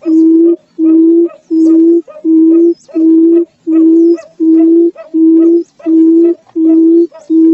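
Barred buttonquail calling: a long, even series of low hooting notes, each held about half a second, at about one and a half notes a second.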